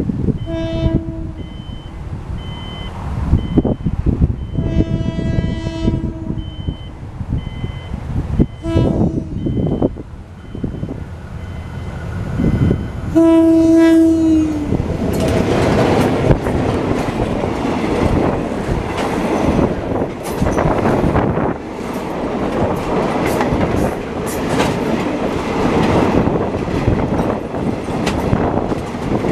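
A State Railway of Thailand Hitachi diesel-electric locomotive, No. 4505, sounds its horn four times as it approaches; the last blast is the longest and loudest. Its train then passes close by with loud, continuous wheel clatter over the rail joints.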